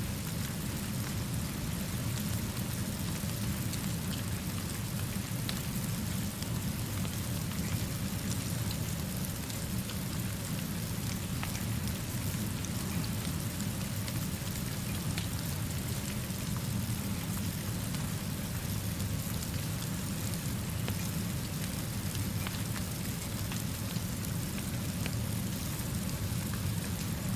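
Steady rainfall with scattered small ticks of drops, over a steady low rumble.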